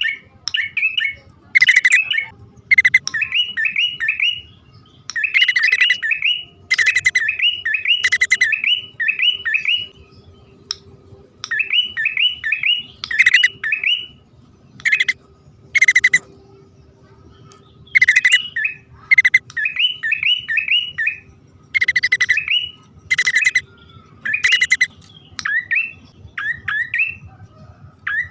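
Prenjak poci (a prinia), male and female, calling: repeated bursts of quick, rising chirp notes, each burst about a second long, coming every second or two.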